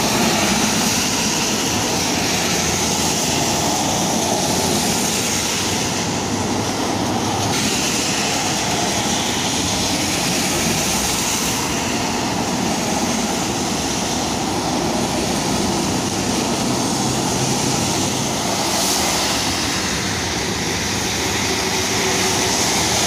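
Steady road traffic on a wet road: vehicles passing close by with tyres hissing through standing water, in a continuous loud wash that swells slightly now and then.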